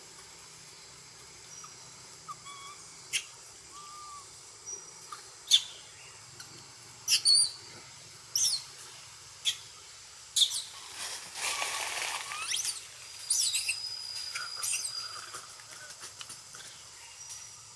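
Forest ambience with birds calling: a dozen or so short, sharp high chirps scattered through, a few brief whistled notes, and one held whistle about thirteen seconds in. A burst of rustling lasting a couple of seconds comes about ten seconds in.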